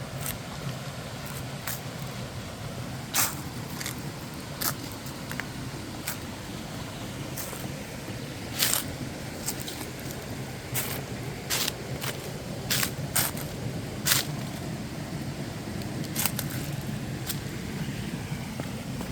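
Waterfall's steady rushing, with scattered sharp clicks or snaps at irregular moments over it.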